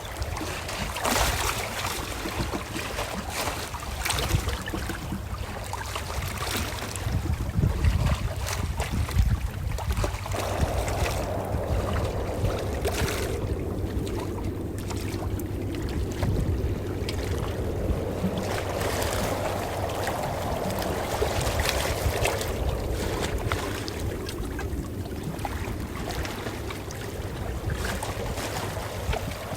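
Calm ocean waves washing in: a steady low rumble of surf, with a slow swell of wash that builds and fades over several seconds in the middle.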